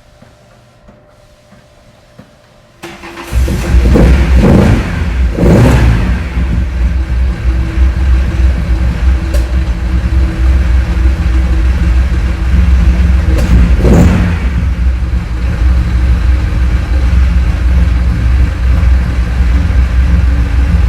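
Nissan Skyline's L28-based straight-six, enlarged to 3.1 litres and fed by Solex carburettors, starting about three seconds in and running through a one-off dual 50 mm exhaust. It is revved twice soon after starting and once more midway, then settles back to a steady idle.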